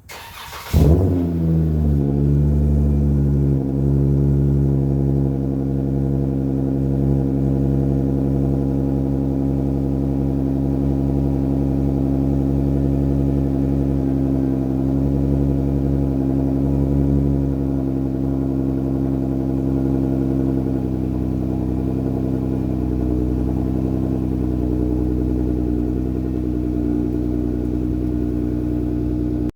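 2014 Dodge Journey's 3.6L V6 cold-starting through an exhaust with both mufflers deleted: it cranks briefly, catches about a second in with a loud flare, then settles into a steady, loud idle.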